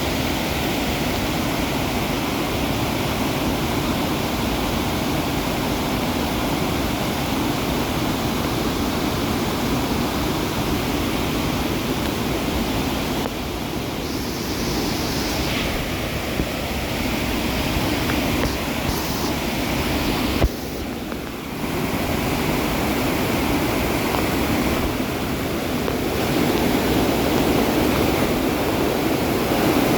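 Steady rush of fast-flowing water, an even noise with no let-up, broken by a click and a brief drop about two-thirds of the way through.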